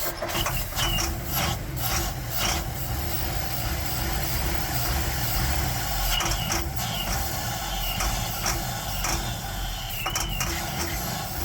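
1960 Ford F100's engine running on starter fluid, a steady low rumble with irregular sharp clatter. It runs only because of the fluid sprayed into the carburettor: spark and compression are good, and the no-start is a fuel delivery problem.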